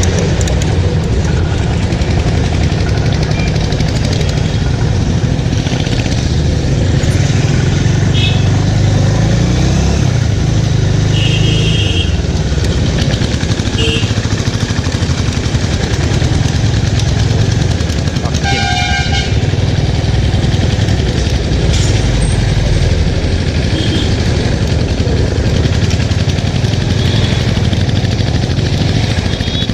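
Bajaj Avenger's single-cylinder engine running steadily on the move, with wind rushing over the microphone. Several short vehicle horn honks cut through, the longest about two-thirds of the way in.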